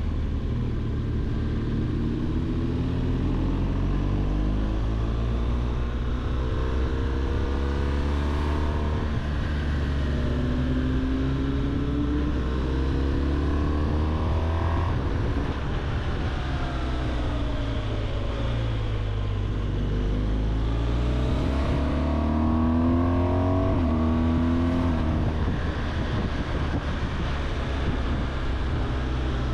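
BMW R 1200 GS boxer-twin engine running under way, its pitch climbing in steps as it accelerates, falling back around the middle, then climbing again.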